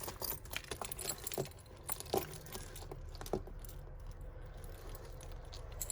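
Tangled costume jewellery being pulled apart by hand: chains, beads and glass pieces clinking and rattling against each other in light, scattered clicks, busiest in the first second or so.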